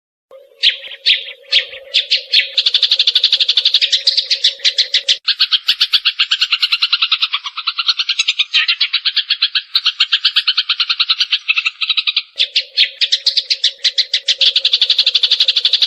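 Eurasian tree sparrow chirping in a fast, unbroken stream of short notes, many to the second, starting about half a second in. A steady low hum runs under it for the first five seconds and comes back near the end.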